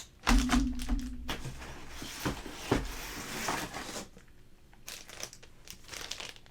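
Plastic packaging crinkling and rustling, with sharp clicks and knocks, as graded comic slabs are handled and unpacked. It is loudest in the first four seconds, then fades to a few fainter clicks.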